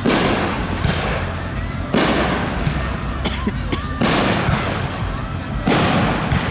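Aerial fireworks shells bursting: four loud booms about two seconds apart, each trailing off in a rumbling echo, with two short sharp pops between the second and third boom.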